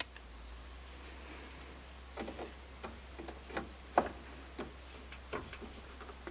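Irregular light clicks and taps of a wrench and metal parts being handled while hoses are refitted on a front-load washing machine, the sharpest tap about four seconds in. A faint steady low hum runs underneath.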